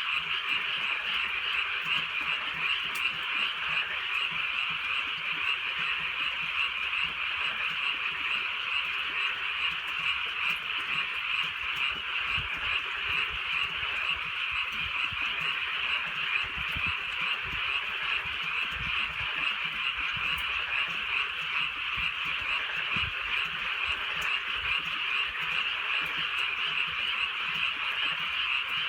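A dense chorus of many frogs calling at once, their croaks merging into a steady, unbroken din that never pauses.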